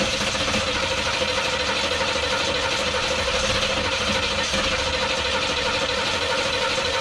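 Freshly rebuilt car engine turning over steadily on a start attempt, with a constant whine over an even mechanical noise; it does not rev.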